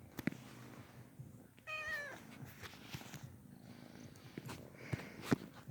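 Pet cat meowing once, about two seconds in, over a low steady purr, with a few sharp clicks, the loudest near the end.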